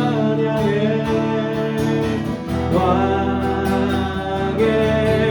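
Group singing a worship song to guitar accompaniment, holding the end of a line and moving into the next phrase.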